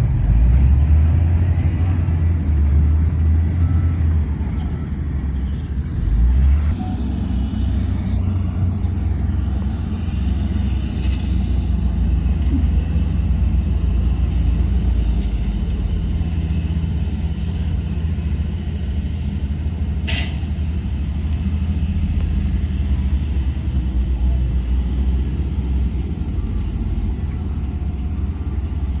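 Heavy diesel engine of earthmoving machinery running steadily with a deep drone. A brief sharp hiss cuts in about two-thirds of the way through.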